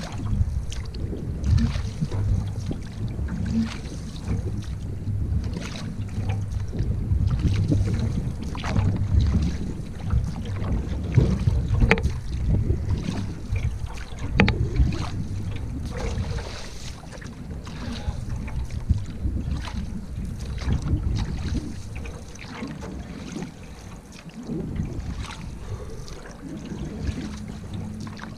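Wind buffeting the microphone while a canoe is paddled, with scattered short knocks and splashes throughout.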